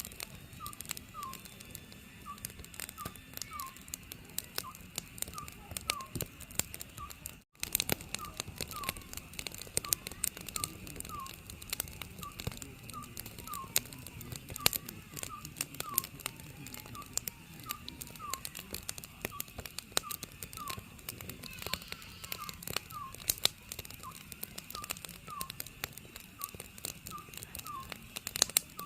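Wood fire crackling and popping steadily, with an oriental scops owl calling over it in a regular series of short, slightly falling hoots. The sound drops out for a split second about seven seconds in.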